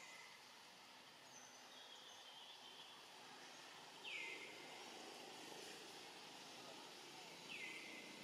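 A bird calling over faint background noise: a short call that drops sharply in pitch and then holds a steady note, repeated about every three to four seconds, with a few fainter higher calls in between.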